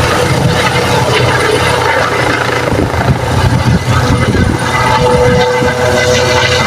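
Helicopter running, a loud steady mix of rotor and turbine engine noise, with a steady whine that grows stronger about five seconds in.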